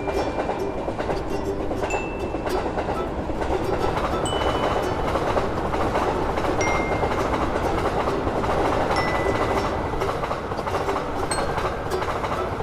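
Electric train running past on the rails, a steady rumble of wheels and track noise with no break.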